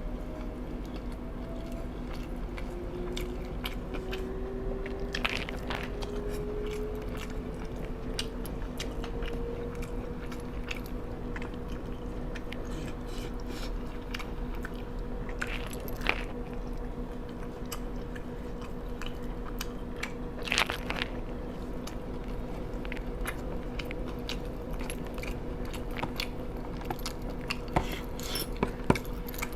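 A person eating crunchy fried chicken close to the microphone: irregular crisp bites and chewing, over a steady low hum.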